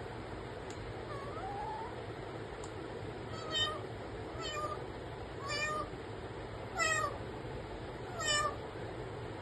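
A pet parrot mimicking a cat's meow: two faint calls, then from about three and a half seconds in five short, louder meows about a second or so apart.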